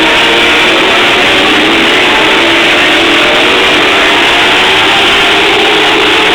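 Several TQ midget race car engines running at speed on the track, their overlapping pitches rising and falling as the cars lap. Loud and steady throughout.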